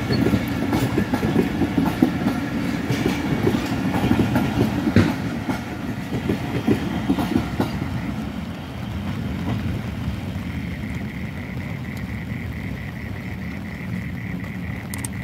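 Passenger train coaches rolling past, wheels clattering over the rail joints in a quick clickety-clack over a low rumble. About eight seconds in the last coach passes and the clatter gives way to a quieter steady rumble as the train draws away, with a faint steady high tone coming in a couple of seconds later.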